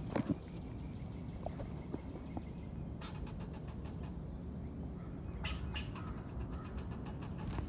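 Squirrel calling in short bursts of rapid clicking chatter, one loud burst at the start and several more later on, over a steady low background rumble.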